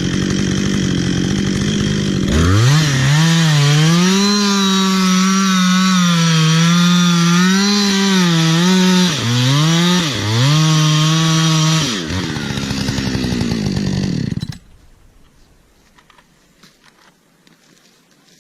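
Chainsaw engine revving up to full throttle about two seconds in and running at high speed. Its pitch sags twice briefly, as it does when the chain loads up in the cut. The pitch then falls away, and the sound stops abruptly a few seconds before the end, leaving only faint background noise.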